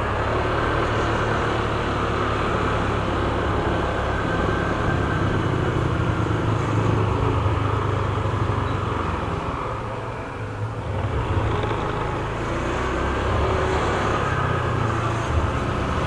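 Motorcycle running on the move, a steady low engine drone under wind and road noise, easing off briefly about ten seconds in.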